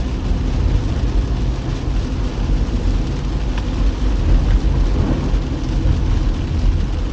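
Steady low rumble of a car driving in the rain, heard from inside the cabin: engine and tyre noise with rain on the car.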